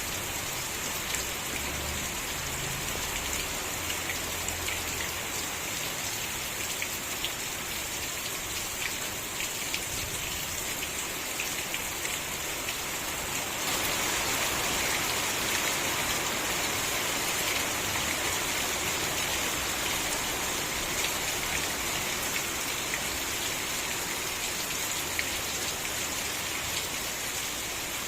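Steady rain falling, with scattered individual drop ticks, growing heavier about halfway through.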